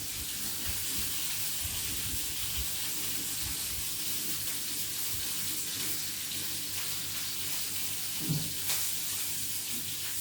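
Kitchen tap running steadily as hands are washed under it, with chicken fillets sizzling in a frying pan underneath. A short knock comes about eight seconds in.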